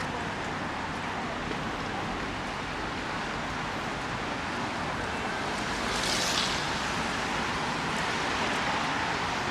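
Steady rushing hiss of a rainy city street, rain and traffic on wet road blended together, with a brief louder hiss about six seconds in.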